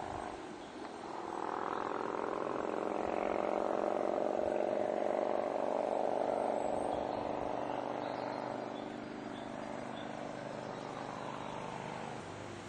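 Distant Harley-Davidson V-twin motorcycle engine running steadily as the bike rides toward the listener. It swells over the first couple of seconds, is loudest around the middle and eases off again toward the end.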